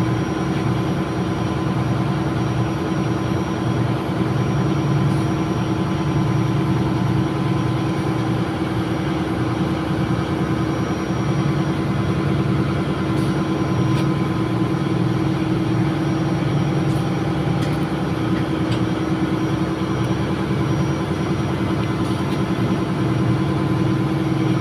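Steady, loud drone of a ship's engine-room machinery running, with a constant hum. A few faint metal clicks from hand tools sound over it.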